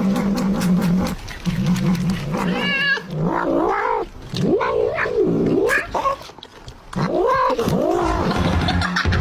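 A cat yowling: a run of long, drawn-out wails that rise and fall in pitch, filling the second half.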